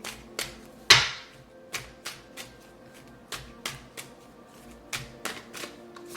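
Tarot cards being handled on a table: a run of irregular sharp clicks and taps, the loudest about a second in, over soft background music.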